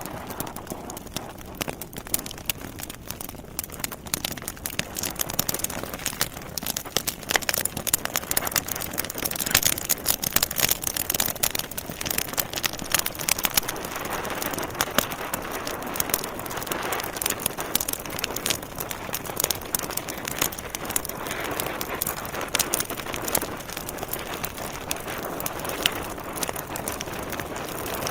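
Burning logs crackling in a fireplace: a dense run of irregular pops and snaps over a steady hiss, busiest about a third of the way in.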